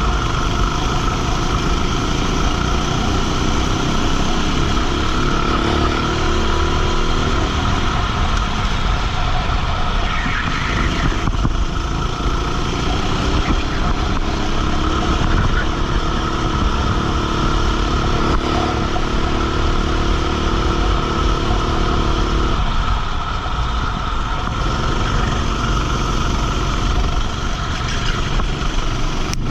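Racing kart engine running flat out on track, its pitch climbing steadily as it accelerates, then falling away briefly twice, near a third of the way in and about three quarters in, before climbing again.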